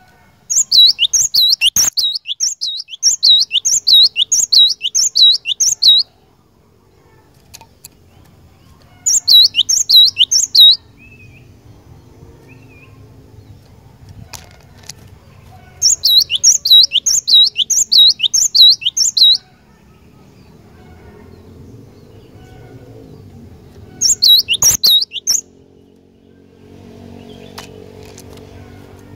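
Cinereous tit (glatik batu) singing: four bouts of fast, repeated high notes, each lasting one to five seconds, with short pauses between them.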